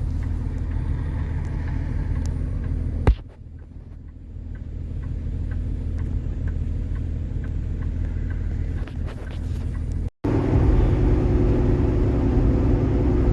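Kenworth T680 semi truck running, heard as a steady low rumble from inside the cab. About 3 seconds in there is a sharp click, after which it is quieter and builds back up. Near the end it comes back louder after a brief break.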